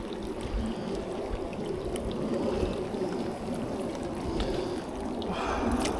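Steady noise of rain and wind on the microphone, with a brighter hiss rising near the end.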